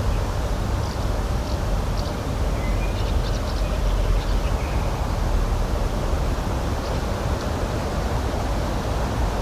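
Steady outdoor rushing noise of nature ambience, with a few faint, brief high bird chirps between about one and four seconds in and again near seven seconds.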